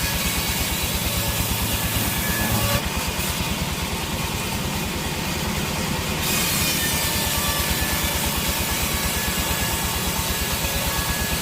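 Sawmill saw running and cutting a teak log, a steady machine sound with a fast even pulse; the high hiss shifts between about three and six seconds in, then returns.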